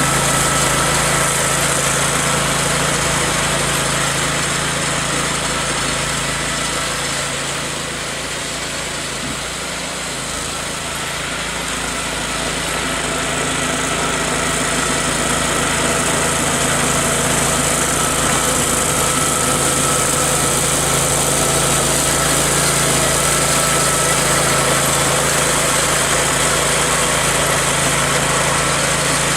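Small garden tractor engine running steadily, its level dipping a little for a few seconds about eight to eleven seconds in before coming back up.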